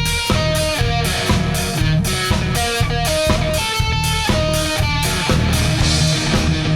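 Instrumental rock passage, guitar notes over bass and a drum beat.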